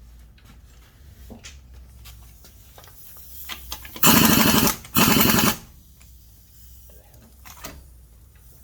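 Impact gun hammering on a lug nut in two short bursts, each about half a second long and close together, a little over four seconds in. Light clicks of handling come before and after.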